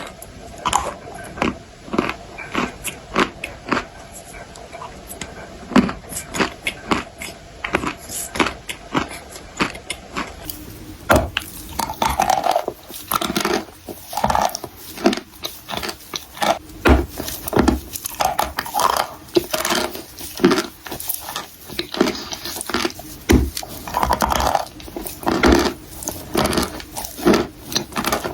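Close-miked biting and chewing of dry baked clay: a dense run of sharp, crisp crunches, several a second, with chewing between.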